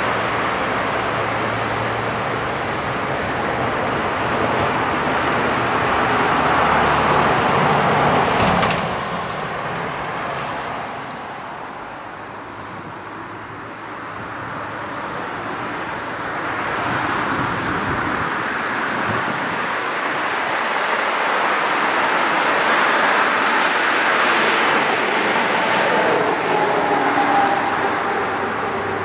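Passing train's running noise, loud at first and cutting off sharply about eight seconds in, then building up again as the next approach nears, with a faint tone sliding slowly down near the end.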